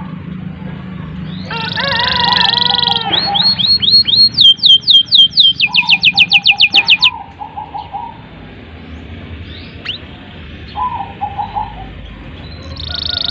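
Domestic canary singing a long, varied song: a buzzy trill, then fast runs of repeated falling whistled notes, then softer low trills near the end.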